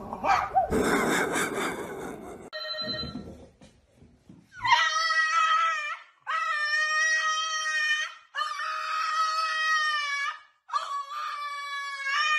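A crow gives a harsh call for about the first two seconds. Then a black French bulldog howls four long, drawn-out times, each howl held at a steady pitch for a second and a half to two seconds with short breaks between.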